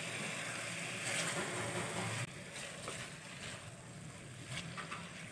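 Potato chunks frying in oil and spice paste in a pot, a soft steady sizzle, while a silicone spatula stirs them with a few light taps against the pot. The sizzle drops a little about two seconds in.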